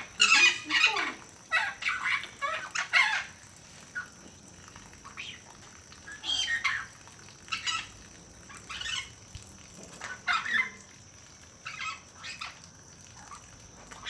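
Bird calls: short squawks and clucks, a quick run of them in the first three seconds, then single calls every second or two. A faint, steady high tone runs underneath.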